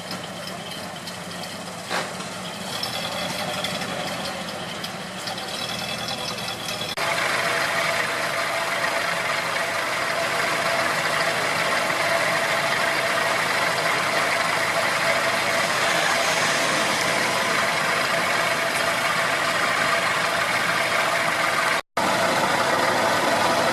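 Car engine idling steadily, with an abrupt change in the sound about seven seconds in and a brief dropout near the end.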